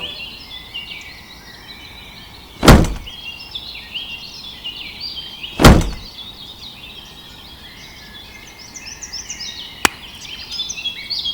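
Birds chirping throughout, with two loud thuds about three seconds apart and a single sharp click near the end.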